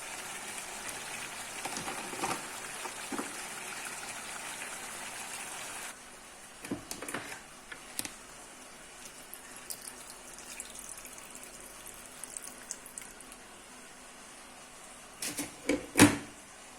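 Kitchen cooking sounds: a steady hiss that cuts off abruptly about six seconds in, then scattered clicks and clinks of utensils, with a few loud knocks near the end.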